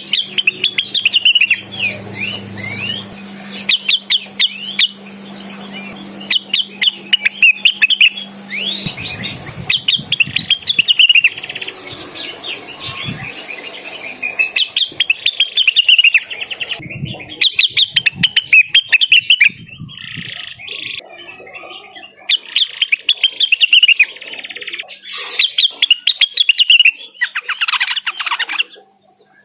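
Greater green leafbird (cucak wilis) singing in a lively, continuous run: phrases of rapid, high chirps and trills a second or two long, broken by short pauses.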